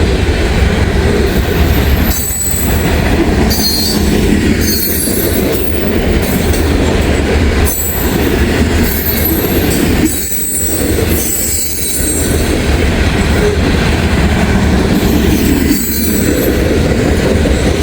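CSX freight train's cars rolling past close by: a loud steady rumble of steel wheels on rail, with high-pitched wheel squeals coming and going every second or two.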